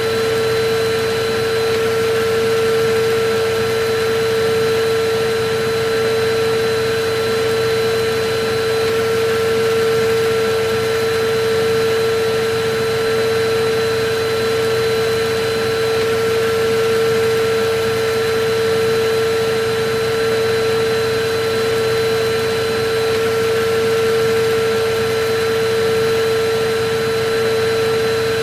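Electric vacuum cleaner running steadily: a constant whine over an even rush of air, with no change in speed.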